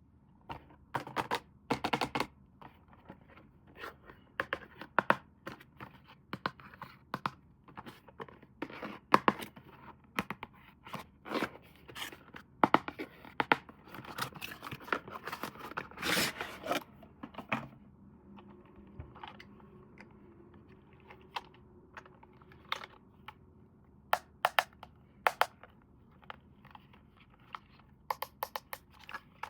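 Hands unboxing a toy: packaging rustled, tapped and scraped in a string of irregular sharp clicks, with a longer stretch of tearing about halfway through.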